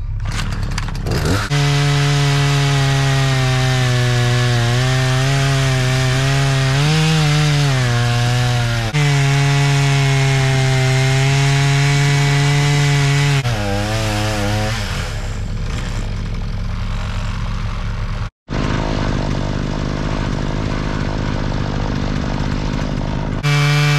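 Gas chainsaw running at high revs while cutting into the base of a juniper trunk. The engine note sags and recovers as the bar bogs in the wood, drops to a lower, quieter run about two-thirds through, and comes back up to full throttle near the end. The slow, labouring cut comes from a chain the owner calls so dull.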